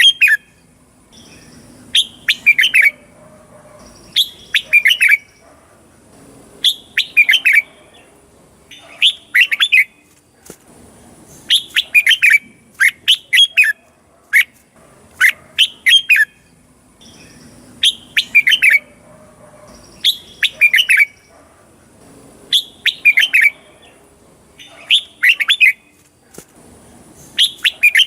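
Red-whiskered bulbul singing: short, rapid warbled phrases about a second long, repeated roughly every two seconds.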